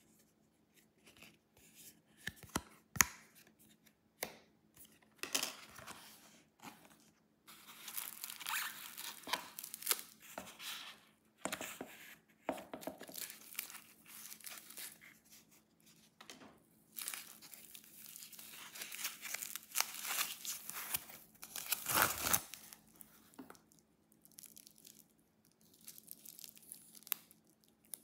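Watch packaging being unwrapped by hand: irregular crinkling and tearing of wrapping, with sharp clicks, the loudest about three seconds in.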